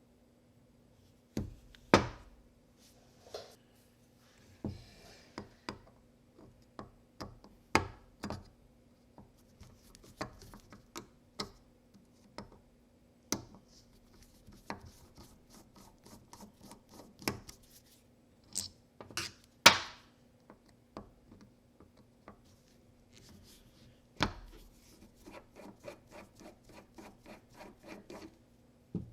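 Irregular clicks, knocks and scraping of hands handling tools and small parts, a sharp knock every second or so with a few louder ones, over a faint steady hum.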